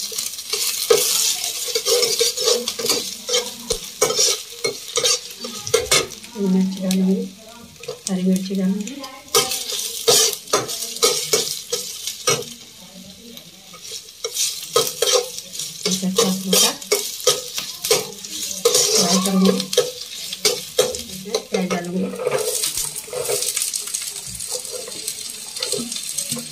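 Flat steel spatula scraping and knocking against a kadhai while chopped garlic and ginger sizzle in hot oil. Near the end the sizzling grows louder as chopped onion is tipped into the oil.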